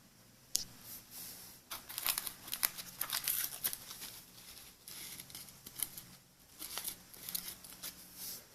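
Packaging crinkling and rustling as it is handled, with scattered clicks and taps, loudest from about two to four seconds in.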